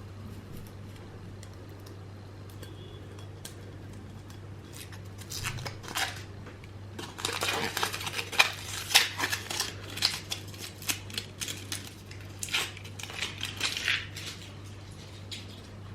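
Dishes and cutlery clinking and knocking in a busy run of small impacts, starting about five seconds in and thickest from about seven seconds until near the end, over a steady low hum.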